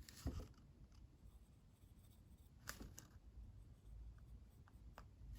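Near silence: room tone with a few faint, short clicks and taps, about four of them, spread out.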